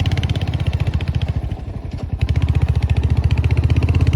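Royal Enfield Himalayan's single-cylinder motorcycle engine running with a steady, rapid beat. It eases off about one and a half seconds in, then picks up again and runs louder.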